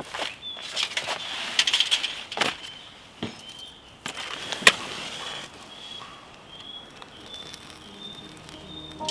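Campfire kindling catching: scattered sharp crackles and snaps of burning wood, one loud pop a little under five seconds in. A faint high chirp repeats through the second half.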